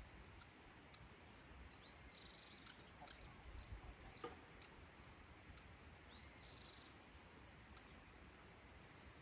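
Quiet countryside evening ambience: faint distant bird calls, two short arching notes about four seconds apart, over a low rumble, with two brief sharp high clicks.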